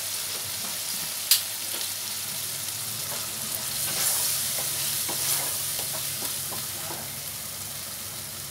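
Onion-tomato masala with curd sizzling in a non-stick pan, stirred and scraped with a wooden spatula, with one sharp knock about a second in.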